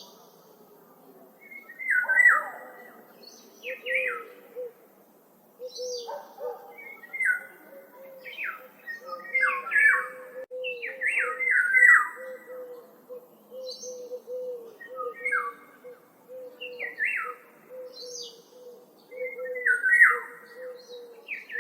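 Wild songbirds chirping in woodland, more than one bird at once: loud, quick down-slurred chirps come every second or two, with thin high notes between them. Under them runs a steady string of short, low repeated notes.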